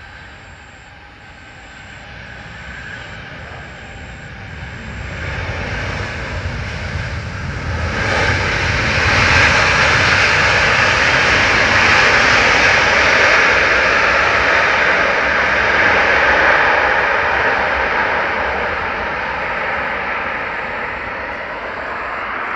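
Airplane engines swelling into a loud, steady rush as an aircraft passes close by, loudest from about a third of the way in, then slowly fading toward the end.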